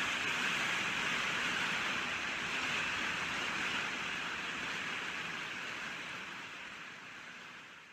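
Steady rainfall, an even hiss of drops, fading out gradually over the last few seconds.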